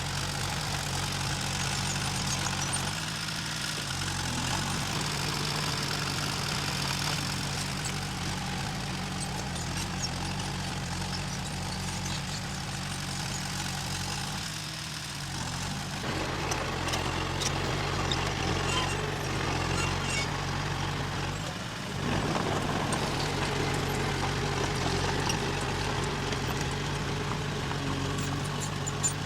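Heavy diesel engine of earth-moving machinery running steadily. Its sound dips briefly a few seconds in, about halfway through and about three quarters through, and runs a little louder after the last dip.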